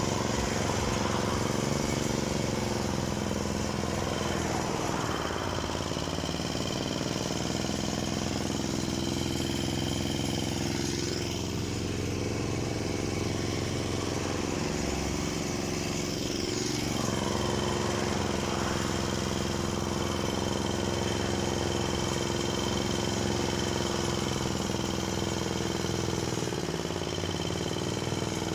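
Lada 2114 (Samara) car engine running steadily under way, its pitch dipping and rising slightly a few times with the changing revs.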